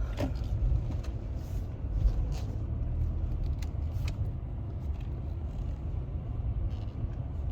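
Steady low rumble of road and engine noise inside a small car's cabin while it is being driven, with a few faint clicks.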